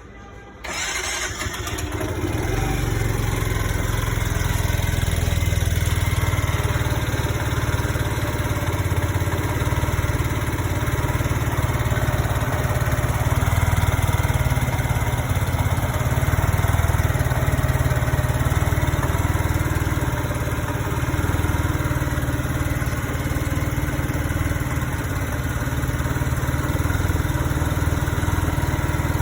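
Piaggio Vespa 125cc scooter engine starting: it catches suddenly a little under a second in, then runs steadily at idle.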